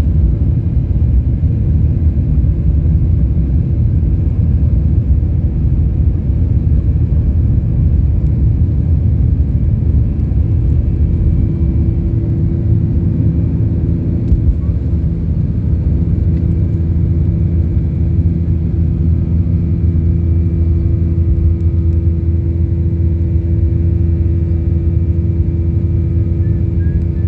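Boeing 737-800 cabin noise in flight: a steady, loud rumble of the CFM56 engines with low hums, one of which steadies and grows clearer about ten seconds in.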